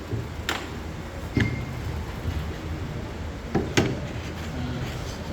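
A few separate light knocks and clicks over a low steady room rumble. One, about a second and a half in, carries a brief metallic ping, and two come close together near the four-second mark.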